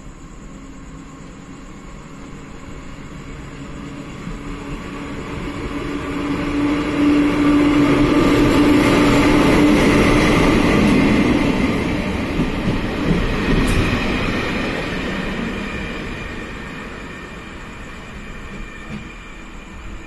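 Taiwan Railway electric locomotive E222 hauling a train of guard's vans and passenger coaches passes close by at speed: the rumble and wheel noise swell over several seconds, peak with a steady hum under the rush, then fade as the train draws away. One sharp click sounds just after the loudest part.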